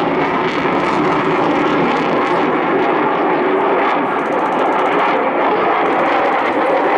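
Jet noise from an RAF Typhoon FGR4's twin Eurojet EJ200 turbofans, loud and steady as the fighter flies a max-rate turn.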